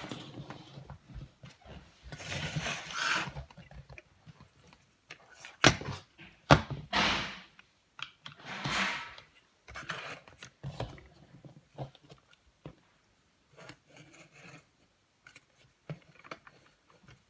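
Lego pneumatic parts: irregular bursts of air hissing, each about a second long, with a few sharp plastic clicks, two of them loud about six seconds in. There is no steady running rhythm.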